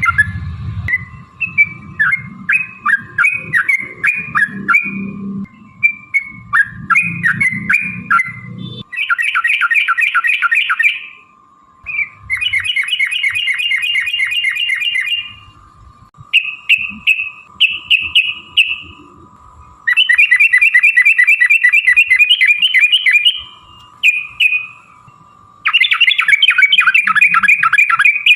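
Yellow-vented bulbul (trucukan) singing loudly: short bubbly chirped notes at first, then long, rapid rolling trills of two to three seconds each, repeated with brief pauses.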